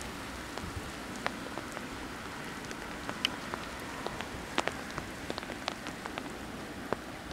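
Steady rain, with irregular sharp raindrop ticks close by.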